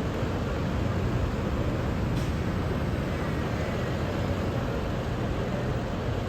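Steady low rumble and hiss of vehicle noise, with one faint tick about two seconds in.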